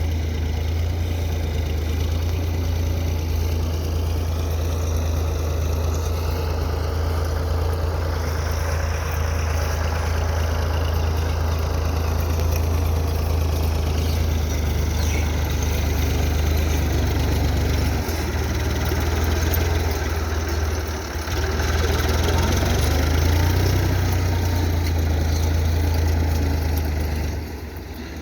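Tractor engine running steadily with a strong low hum, dipping briefly about two-thirds of the way through and again near the end.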